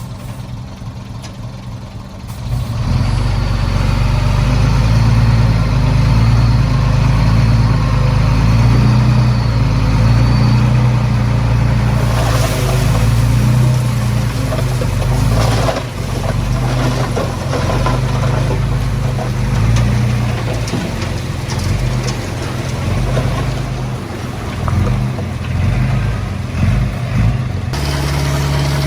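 Heavy diesel engine of earthmoving machinery running under load, getting louder about two and a half seconds in and then working steadily, with rougher, noisier stretches in the middle.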